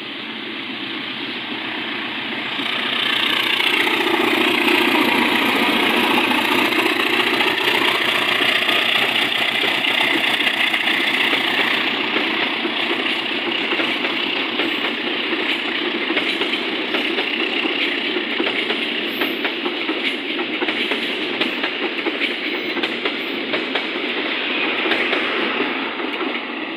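Diesel-hauled local passenger train passing close by. The engine noise swells over the first few seconds, then the carriages run past with a long stream of wheel clicks over the rail joints.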